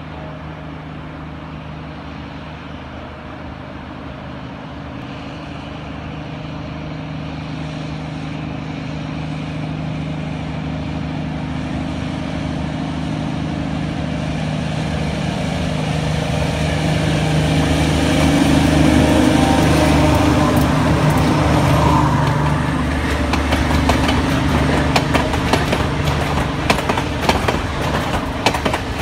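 White Pass & Yukon Route narrow-gauge train's diesel locomotive approaching, its engine hum growing steadily louder as it nears and passes. From about two-thirds of the way in, the passenger coaches' wheels click over the rail joints in a regular clickety-clack.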